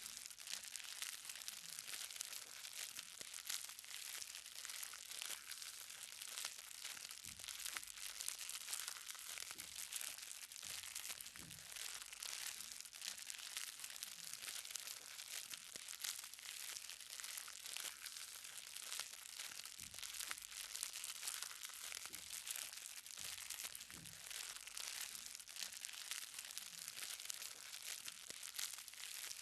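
Light rain falling, many small drops ticking on the ground in a steady dense crackle, with an occasional heavier, duller drip every second or two. A faint steady hum lies underneath.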